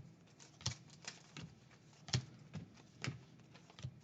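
Baseball trading cards being handled and sleeved: a string of light, irregular ticks and taps, roughly two a second.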